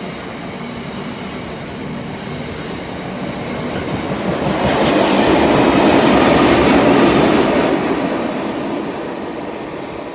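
Freight train wagons rolling past behind a Class 60 diesel, a steady rail rumble that swells to its loudest a little past the middle and then eases off, with a few clicks from the wheels over rail joints.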